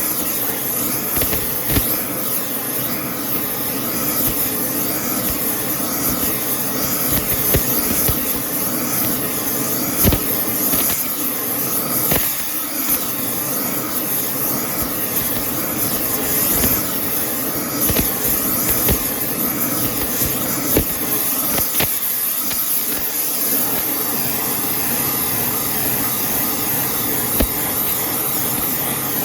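Welding arc hissing steadily with irregular crackles and pops, laying weld into the wheel hub's bore that a spun bearing scored.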